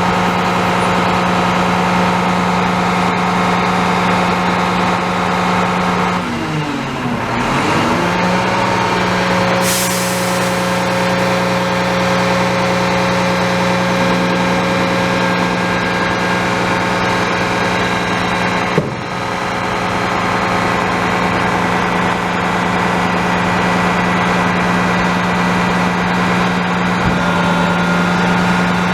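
Garbage truck's diesel engine running steadily. About six seconds in its pitch sags and climbs back, a short burst of air hiss comes about ten seconds in, and there is a sharp click near nineteen seconds.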